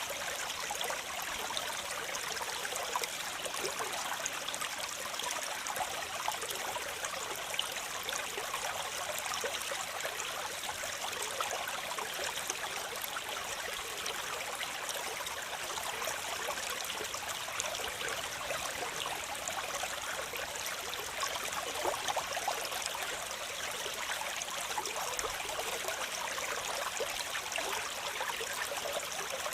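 Waterfall splashing steadily, a constant rush of falling water with small splashes through it.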